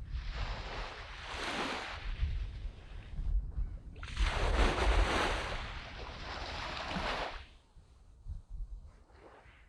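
Sea waves washing up on a sand beach: two surges, the second longer and louder, then a quieter lull with a small wash near the end. A low wind rumble on the microphone runs underneath.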